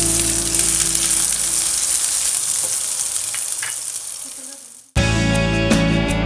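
Food frying in hot oil, a steady high sizzle with background music under it, fading out about four to five seconds in; music then starts abruptly near the end.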